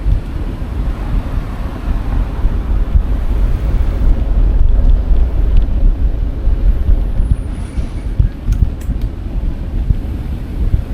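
Wind buffeting an action camera's microphone on a moving bicycle: a loud, gusty low rumble, with a few faint clicks near the end.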